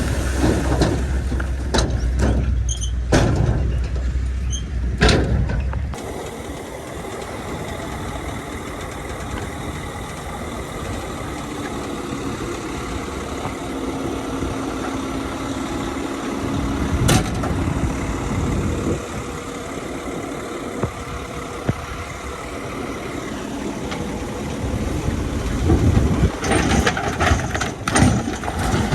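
Heavy diesel earthmoving machinery running, with a deep low rumble that drops away about six seconds in. A single sharp knock comes partway through, and the engine noise grows louder and busier near the end.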